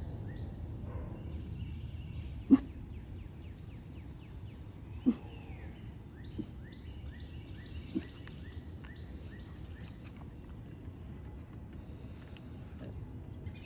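Small birds chirping over and over with short, quickly falling calls, over a steady low background noise. A few sharp knocks cut through, the loudest about two and a half seconds in and others near five, six and a half and eight seconds.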